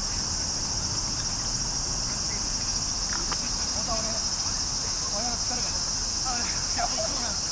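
Steady high-pitched chirring of insects, with faint distant voices calling out a few times from about three seconds in.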